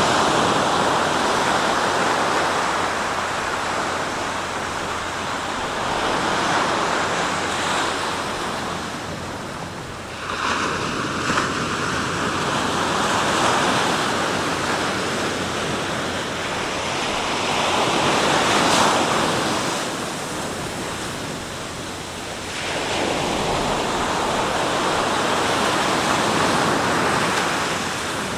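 Sea waves breaking and washing in, a steady rushing surf that swells with each new wave about every five to ten seconds.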